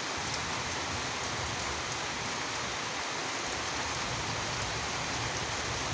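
Steady rain falling, an even hiss that does not break or change.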